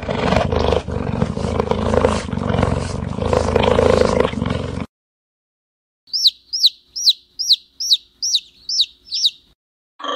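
An animal's loud, rough roar lasting about five seconds, which stops abruptly. After a short gap comes a bird call: eight quick, high chirps, each falling in pitch, about two a second.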